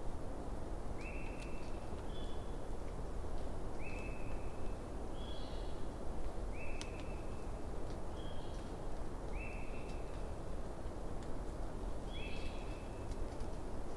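Campfire burning with a steady low rush and scattered sharp crackles. Over it, an unseen animal in the night forest gives short, level, high calls about every one and a half seconds, alternating between two slightly different pitches.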